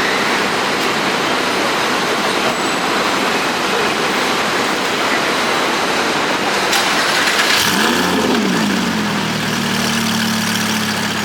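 Street traffic noise, then about three-quarters of the way in a car engine starts with a quick rev flare that rises and falls in pitch before settling into a steady idle.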